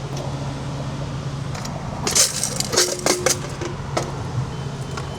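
Quarters and car wash tokens clinking and rattling as a self-serve bay's coin box is emptied, in a cluster of clinks about two seconds in, over a steady low hum.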